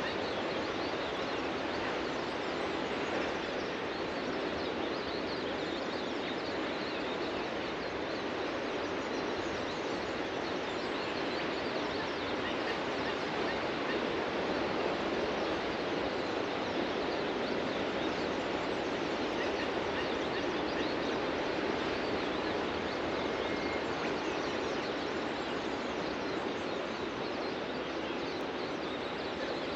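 Ocean surf washing steadily onto the beach, with faint bird chirps over it.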